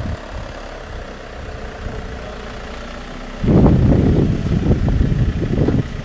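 Opel minivan's engine running at low speed close by as it pulls up, a steady low rumble; about three and a half seconds in, a much louder, uneven low rumble takes over for over two seconds.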